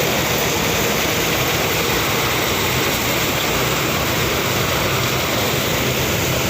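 Rice combine harvester running steadily at work: a continuous engine drone mixed with the noise of the threshing machinery.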